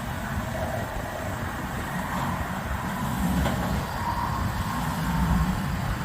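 LS V8 engine in a 1984 Ford F-150 running through its newly built exhaust: a steady low rumble that swells slightly a few seconds in.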